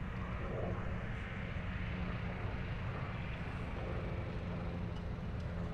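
A distant engine droning steadily: a low rumble with a constant hum, unchanging throughout.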